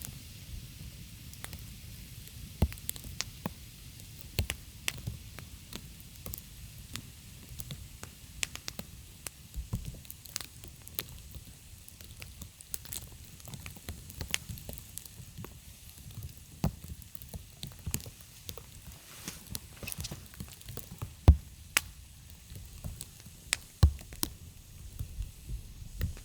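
Wood campfire crackling, with irregular sharp pops and snaps over a low steady rumble; a few louder pops come in the second half.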